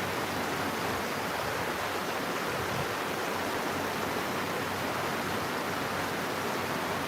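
Steady rain falling, a constant even hiss with no separate drops or gusts standing out. A faint low hum runs underneath.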